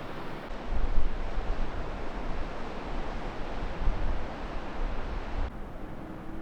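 Wind blowing across the microphone: a steady rush with uneven low buffeting rumbles, which starts and stops abruptly about half a second in and again near the end.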